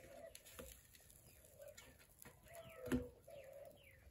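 Faint bird calls: short low cooing notes, typical of doves, and a few quick falling chirps from small birds. About three seconds in there is one soft slap, the loudest sound, which fits hands patting a ball of corn masa.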